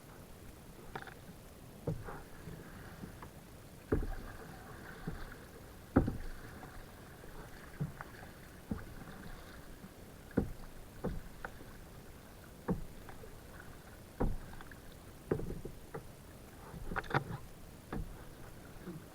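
Kayak being paddled: short sharp knocks and splashes of the paddle strokes, one about every one to two seconds, the loudest about six seconds in.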